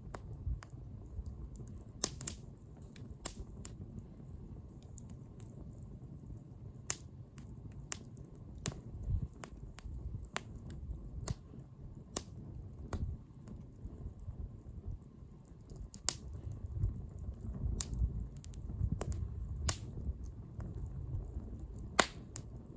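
Wood bonfire crackling: sharp, irregular pops about once a second from the burning wood, over a low, uneven rumble.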